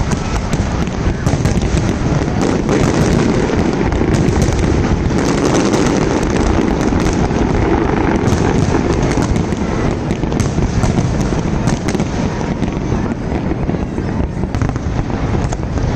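Fireworks display going off continuously: a dense, steady rumble of bursts with many sharp crackles layered over it.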